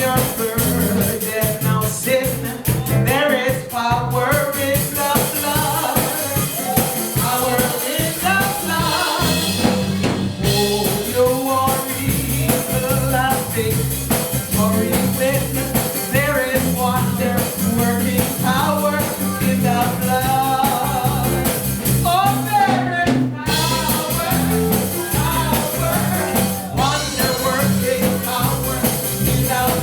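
Live contemporary gospel worship music: a band with drum kit and bass plays while voices sing.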